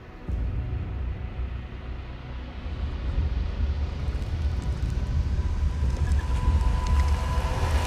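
Kawasaki Teryx KRX 1000 side-by-side's engine running with a low rumble that comes in suddenly and grows gradually louder.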